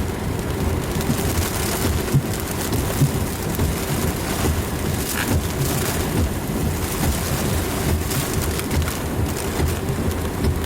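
Rain and wind beating on a moving vehicle in a supercell thunderstorm, a steady rushing noise over a low rumble.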